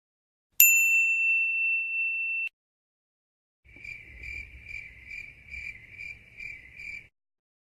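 A single bright ding that rings for about two seconds and cuts off. It is followed by crickets chirping in an even pulse, about two or three chirps a second, for about three seconds: the stock 'crickets' sound effect.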